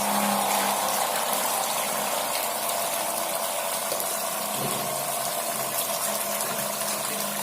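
Homemade water pump driven by a table fan motor, running with a steady hum while water gushes and splashes from its outlet.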